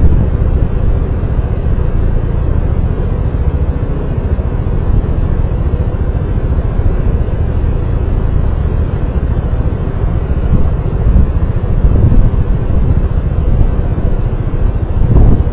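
Steady low rumble of wind buffeting the microphone and road noise from a moving vehicle, with a faint engine hum underneath.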